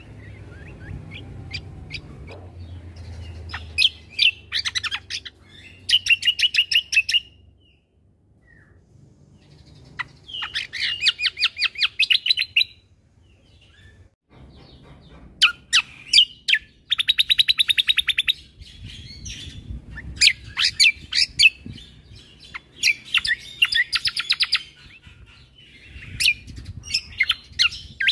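Cucak kombo (kecial kombo) singing its rapid 'tembakan' phrases. Repeated bursts of fast, staccato trilled notes, each burst lasting one to two seconds, are separated by short pauses.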